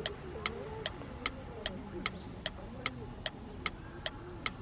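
Sharp ticks at a very even pace, about two and a half a second, over a faint wavering lower sound.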